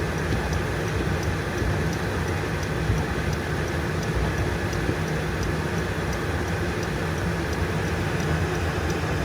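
Steady engine and road noise inside a car's cabin while driving, an even low rumble with no sudden events.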